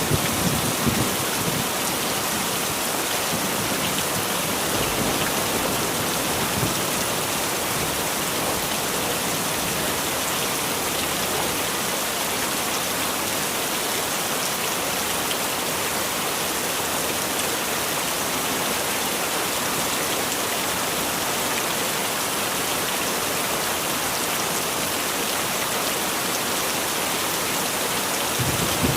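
Heavy rain falling steadily, a dense even hiss. A low rumble of thunder dies away in the first second or so.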